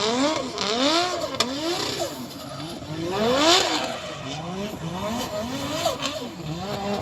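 A car engine revved hard over and over, its pitch climbing and dropping in quick succession, about ten times. It is loudest about halfway through.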